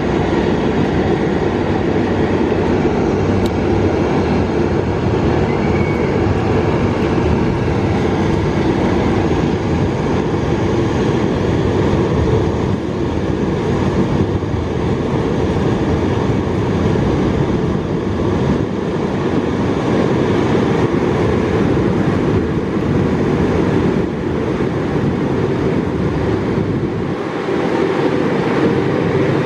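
Joglosemarkerto passenger train running on the rails: a steady, low rumble with no clear change in speed.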